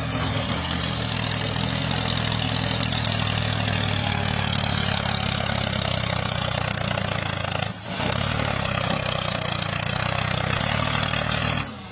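A steady, low engine-like drone, briefly cut off about eight seconds in and again near the end.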